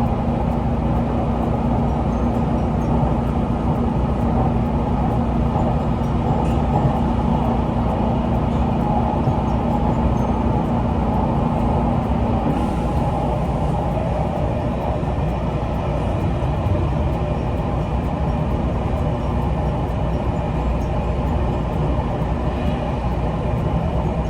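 Passenger train running, heard from inside the carriage: a steady rumble of wheels and car body, with a low steady hum that stops about halfway through.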